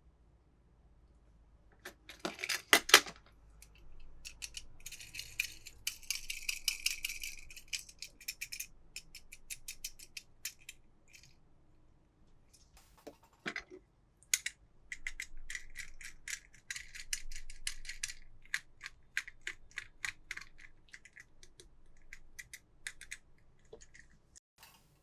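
Plastic toy packaging and small toy cars being handled during an unboxing: bursts of rapid clicking, crackling and rattling, loudest a couple of seconds in, with long runs of quick clicks in the middle and later on.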